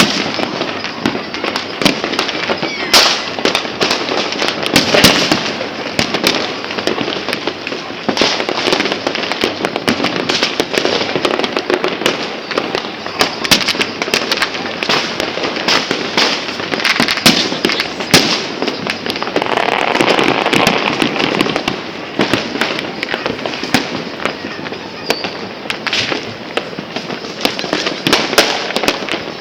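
New Year's fireworks and firecrackers going off nonstop all around: a dense, continuous crackle with many sharp bangs on top, some of them very loud.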